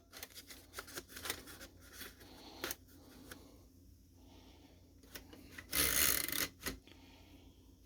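Paper being fed into a Chicago typewriter: scattered small clicks and rustles of the paper and mechanism, with one louder, longer rush of sliding paper about six seconds in.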